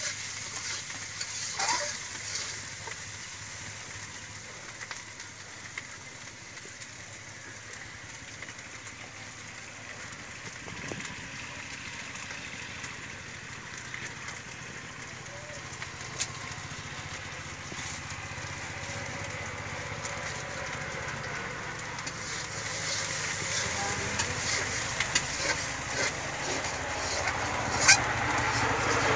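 Whole boiled eggs sizzling in hot oil in a steel karahi, with a few sharp clicks of a metal spatula stirring against the pan. The sizzle grows louder in the last few seconds.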